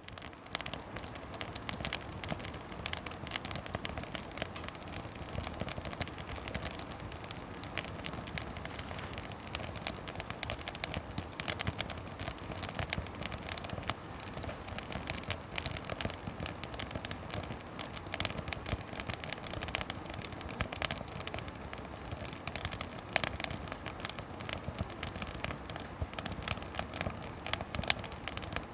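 Split firewood burning in a campfire, crackling without pause in dense, irregular snaps over a steady hiss, with a few louder pops.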